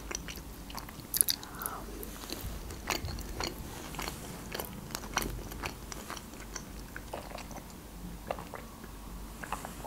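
Chewing a mouthful of Caesar salad: irregular crunches and small wet mouth clicks.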